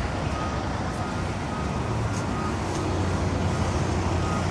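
Steady low rumble of a running vehicle engine, with faint short repeated beeps in the background.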